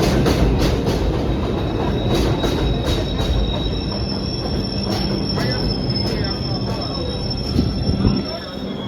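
New York City subway train running through the station, its steel wheels squealing on the rails in two steady high tones over a loud rumble and a low hum, with regular clacks of wheels over rail joints. The sound eases slightly and drops off about 8 seconds in.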